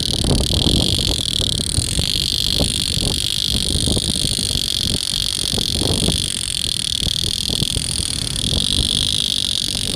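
A steady, shrill animal chorus, frog-like, carrying on without a break over a low, uneven rumble.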